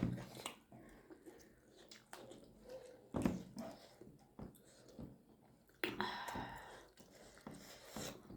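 People chewing and eating steamed momo dumplings: faint, irregular wet mouth clicks, with a few louder bumps, the loudest about three and six seconds in.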